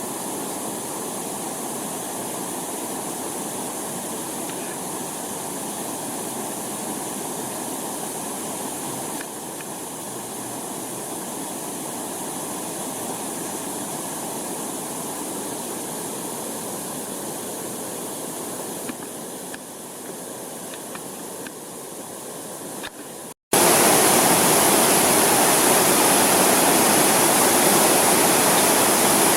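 Waterfall: water falling and splashing in a steady rush. Near the end the sound breaks off for a moment and comes back louder and hissier.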